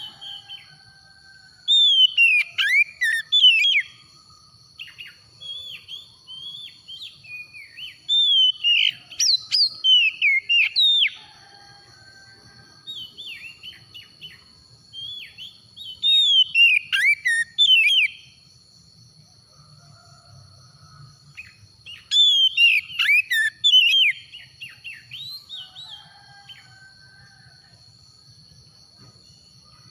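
Oriental magpie-robin (kacer) singing: loud bursts of quick, sweeping whistled notes, four times, with quieter short notes between them.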